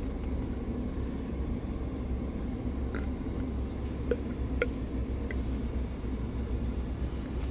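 Steady low rumble inside a truck's cab with the engine running, with a few faint clicks near the middle.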